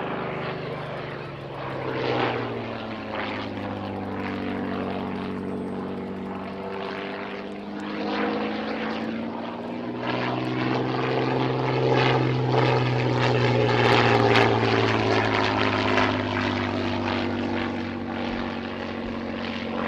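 Hawker Fury I biplane's Rolls-Royce Kestrel supercharged V12 engine and propeller droning through a display pass. The note sinks, swells and rises again past the middle, then sinks once more, and is loudest about two-thirds of the way through.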